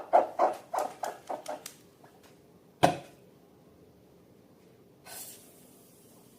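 Slime being squeezed and worked by hand: a quick run of short squelches over the first two seconds, then one sharper pop near the three-second mark, and a brief hiss about five seconds in.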